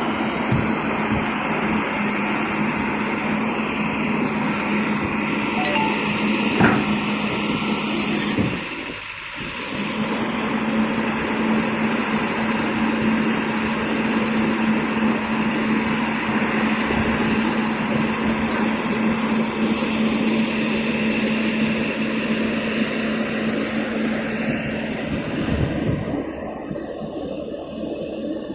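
Excavator's diesel engine running steadily with a constant hum, briefly dropping out about nine seconds in and easing off slightly near the end.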